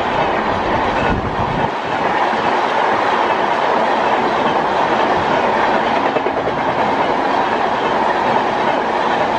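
Express train passing through the station at speed without stopping. Its coaches' wheels make a loud, steady rush on the rails, with clickety-clack.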